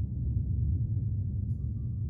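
Low, steady ambient drone from an animation's soundtrack, with a faint high shimmer about one and a half seconds in.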